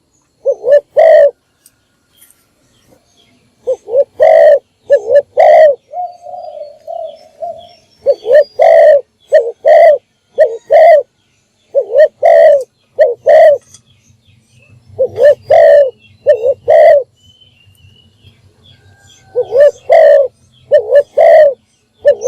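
Spotted dove cooing: short phrases of two to four low coos, repeated every few seconds, with one longer even note about six seconds in.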